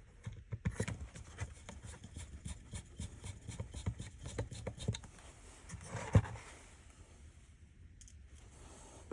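Small clicks, taps and scrapes of hand-work on a plastic car light-control switch panel being dismantled. They come in a quick, irregular run for about five seconds, with one louder knock about six seconds in.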